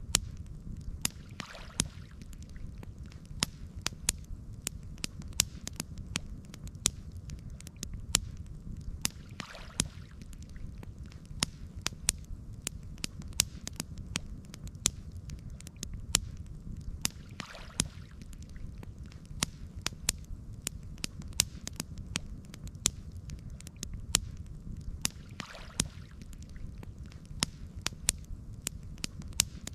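Campfire crackling: many sharp, irregular pops and snaps over a low, steady rumble, with a faint soft swell about every eight seconds.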